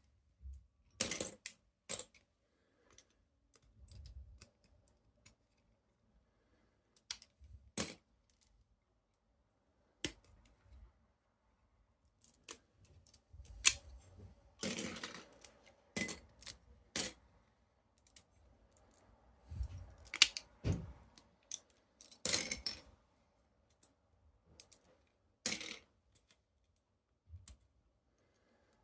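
Irregular plastic clicks and rattles from a Lego model being handled, with soft rubbing in between and a few sharper clacks.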